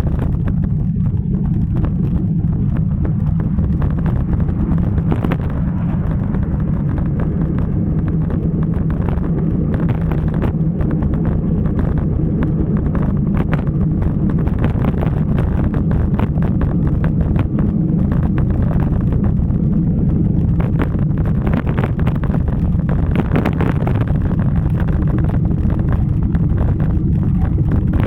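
Wind rushing over the microphone of a moving bicycle rider, a steady low rumble with crackling gusts.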